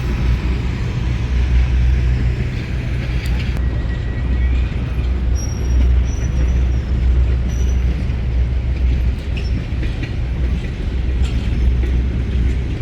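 Steady low rumble of a large engine running, with a few faint high tones in the middle.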